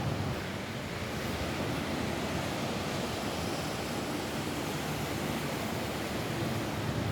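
Steady rain falling on a roof: an even, unbroken rushing noise, fullest in the low range.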